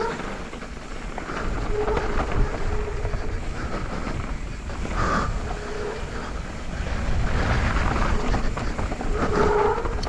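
YT Capra mountain bike descending a dirt trail, heard from a body-mounted camera: wind buffeting the microphone over the rumble and rattle of tyres and frame on the dirt, with a few brief squeals.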